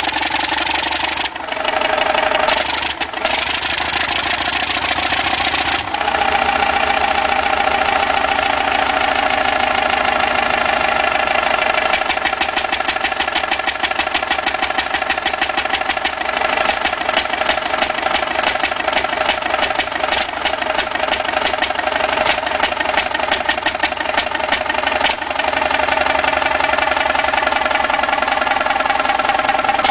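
An old engine running steadily with rapid, even firing strokes; the sound shifts abruptly a few times in the first six seconds.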